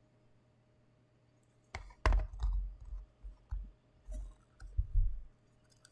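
Irregular sharp plastic clicks and knocks with dull thumps, starting a little under two seconds in: a boxed anime figure and its plastic packaging being handled.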